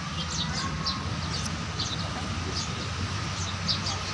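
Small birds chirping in quick short notes, several a second, over a steady low hum.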